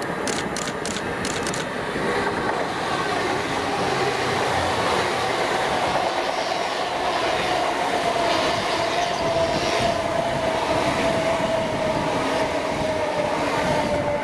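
A train passing at speed: a steady rumble of wheels on the rails with a single whine slowly falling in pitch, and a quick run of clicks in the first second or so.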